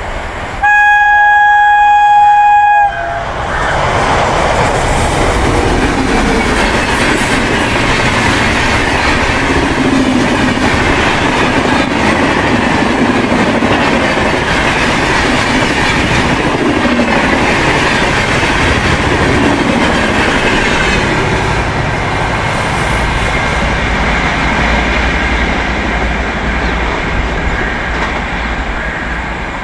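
An Indian Railways electric locomotive's horn sounds one steady blast of about two seconds, the loudest sound here. It is followed by the long, continuous rush and wheel noise of an express train passing at full speed, which fades slightly near the end.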